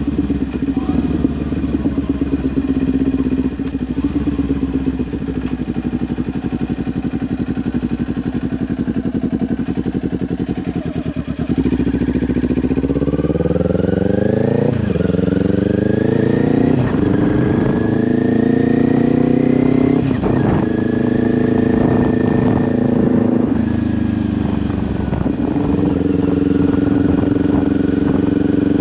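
Kawasaki Ninja 400's parallel-twin engine through an SC-Project aftermarket exhaust, running steadily at low revs, then about halfway accelerating with the pitch climbing and dropping sharply at each of several upshifts, before settling into a steady cruise.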